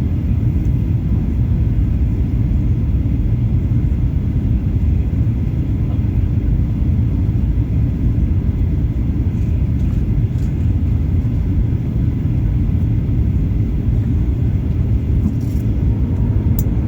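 Steady low rumble inside the cabin of a Boeing 737-800 in flight: engine and airflow noise heard from a window seat.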